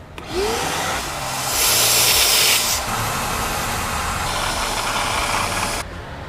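A steady hissing spray jet that starts just after the beginning, grows louder and brighter for about a second near the two-second mark, and cuts off suddenly about six seconds in.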